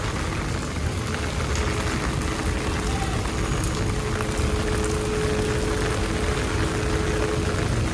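Steady monsoon rain falling, an even hiss of drops, with a steady low two-note hum underneath from about a second in.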